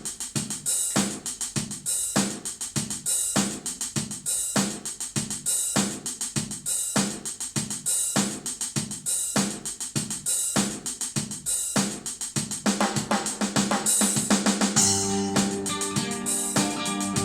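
Drum kit playing a steady beat with hi-hat and cymbals as a rock song's intro; about three-quarters of the way through, held pitched notes come in over the drums, with a low bass note soon after.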